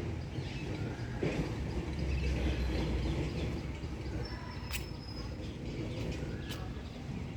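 Outdoor ambience: a steady low rumble with faint bird chirps, and two sharp clicks in the second half.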